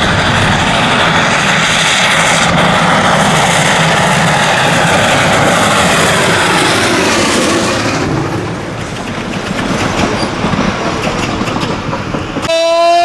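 Steam locomotive Ww 644 running, heard from the cab as loud, steady rumble and clatter that eases somewhat after about eight seconds, with scattered clicks. Near the end, a short, steady whistle tone starts.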